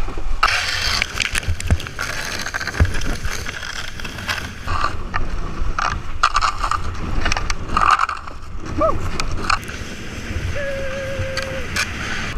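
Rushing water and wind buffeting the microphone as a small boat speeds down a narrow channel, with scattered knocks and scrapes of the hull, and a short whoop about nine seconds in.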